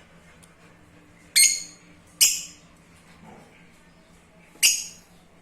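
Lovebirds giving three short, shrill squawks, about a second and a half in, just after two seconds, and near the end.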